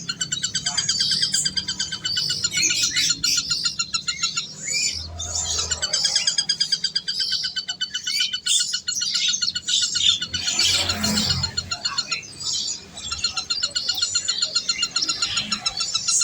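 Many small birds chirping and twittering at once, with fast trilled calls overlapping continuously.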